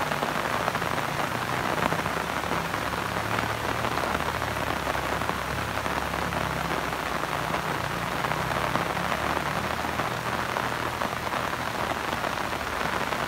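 Steady rain falling on grass and the stones of a riverbed.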